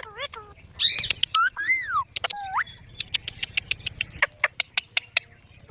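A pet green parrot calling: a run of short chirps, a harsh screech about a second in, then whistled calls that rise and fall. After that comes a quick series of sharp clicks, about five a second, lasting some two seconds.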